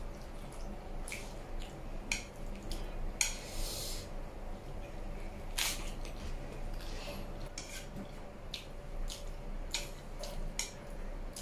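Eating close to the microphone: wet chewing and mouth smacks in scattered sharp clicks, with bites of a crisp lettuce leaf and noodles.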